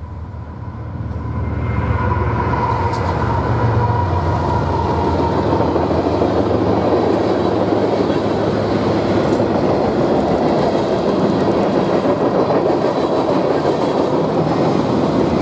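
Diesel locomotives of a freight train passing close by, their low engine hum strong over the first few seconds. Then a steady, loud noise of the freight cars' wheels running over the rails as the cars roll past.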